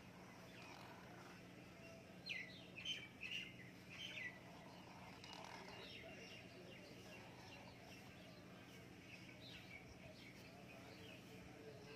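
Near silence with a low steady hum, and faint bird chirps: a cluster of short, quick chirps between about two and four seconds in, and a few fainter ones near the end.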